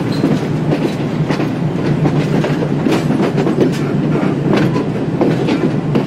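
Passenger train running on the track, heard from aboard: a steady rumble with irregular clicks as the wheels pass over rail joints and points.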